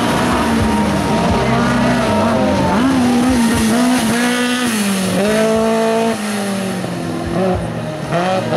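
Hill climb race car engine revving hard as it drives past, its pitch climbing and dropping back with each gear change. It gets somewhat quieter about six seconds in.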